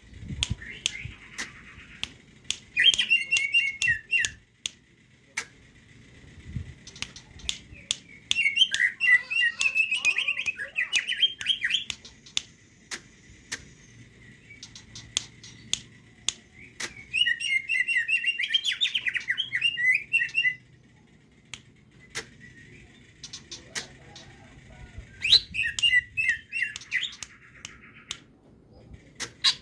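Green leafbird (cucak hijau) singing in four chattering bursts of rapid, tumbling notes, each lasting one to three and a half seconds, with sharp clicks between the phrases.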